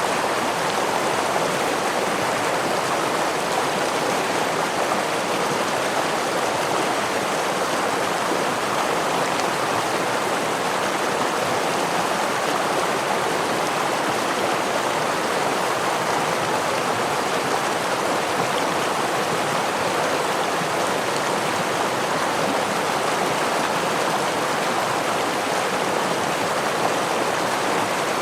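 Steady rush of a small river or stream flowing over a waterfall, an even unbroken water noise with no single splashes standing out.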